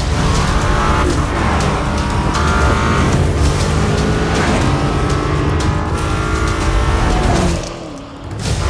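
BMW M5 (G90) twin-turbo V8 revving hard at speed, its pitch climbing and falling through gear changes, over background music. The sound drops away briefly near the end.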